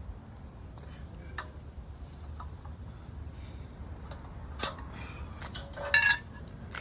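Scattered clicks and knocks of plastic animatronic parts being handled and taken apart, with a sharp click about four and a half seconds in and a short clattering squeak near the end.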